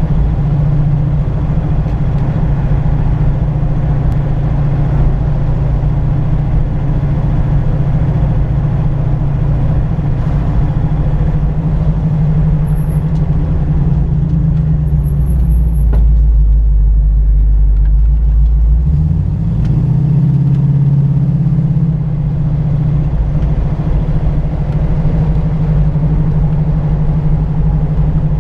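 Older car's engine running while driving. A few seconds past the middle its note drops to a low rumble as the car slows into a sharp bend, then climbs back up as it accelerates out.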